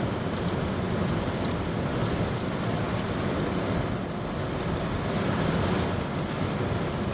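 Heavy thunderstorm rain and wind beating on a van's roof and windows, heard from inside the van as a steady rushing noise.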